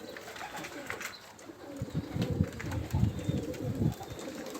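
Domestic pigeons cooing at the loft, with a louder low rumble for about two seconds in the middle.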